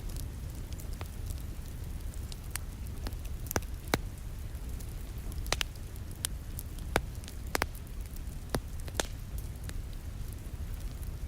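Wood fire crackling in a fireplace, with irregular sharp pops over a steady low rumble, mixed with rain falling against a window.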